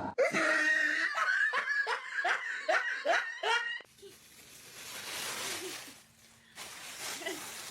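A person laughing in a quick string of repeated bursts for about four seconds, then trailing off into breathy, hissing noise.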